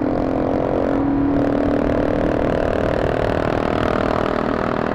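Motorcycle engine running at a fairly steady speed while riding, with wind rumbling on the microphone.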